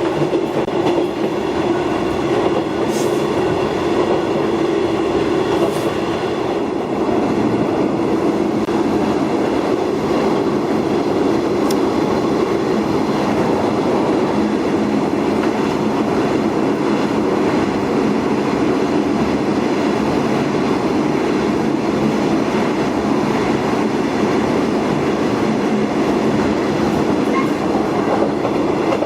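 Keihan 260-type tram car running steadily along the Ishiyama-Sakamoto line, a constant rumble of wheels and running gear with a steady hum.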